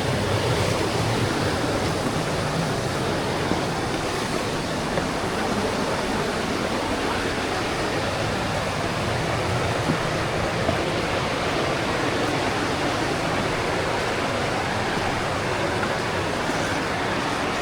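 Steady rush of falling water from a waterfall and its stream, an even noise with no let-up.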